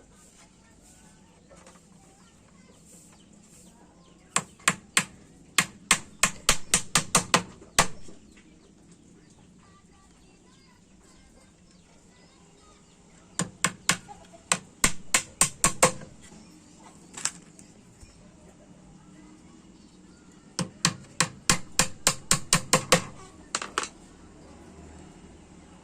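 Small hammer tapping pins or nails into a wooden bird-cage frame by hand: three runs of sharp taps, each run about ten strikes that quicken to four or five a second.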